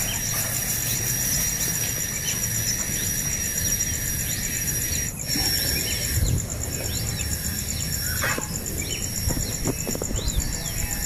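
Insects trill steadily at a high pitch while birds give many short, quick chirps throughout.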